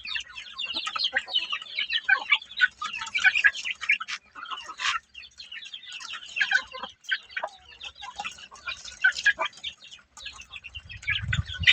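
Young cockerels giving a rapid, continuous stream of short, high cheeping calls, with a few brief pauses.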